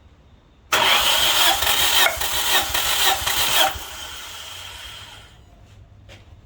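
Nissan QG18DE 1.8-litre four-cylinder engine turned over on its starter motor: a loud, pulsing cranking sound, about three beats a second, starting suddenly and lasting about three seconds, then a much quieter tail that stops about five seconds in.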